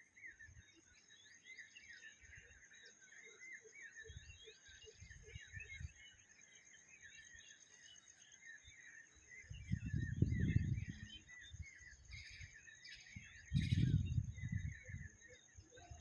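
Many small birds chirping and twittering in a dense chorus, with a steady high-pitched tone behind them. Two loud low rumbles break in, one about ten seconds in and one near the end.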